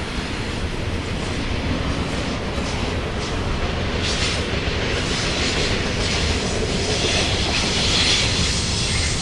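BNSF freight cars rolling past: a steady rumble of steel wheels on rail with some clickety-clack, and a brighter high hiss swelling about four seconds in and again near the end.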